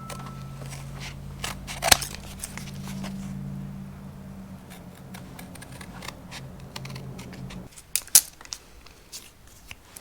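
Scissors snipping in short repeated clicks, with a sharp knock about two seconds in and another near the end. A steady low hum runs underneath and stops a couple of seconds before the end.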